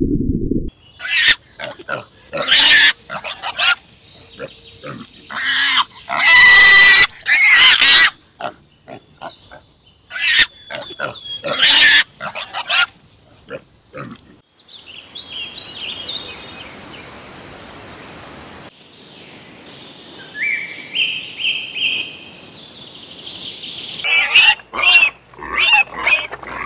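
Pigs squealing in short, loud, repeated bursts, with a quieter stretch of steady outdoor background in the middle. Piglets at a nursing sow squeal again near the end.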